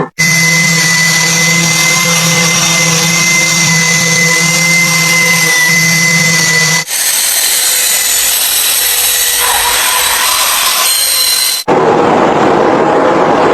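Electric power tools running steadily in three short clips cut together. The first has a steady motor hum with a high whine; the later two are a hissing, grinding rush with no clear pitch.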